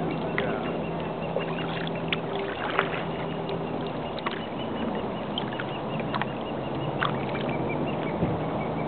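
Birds calling over a boat motor's steady low hum: short sharp calls throughout, with a quick run of evenly spaced high notes in the middle. The hum fades about halfway through.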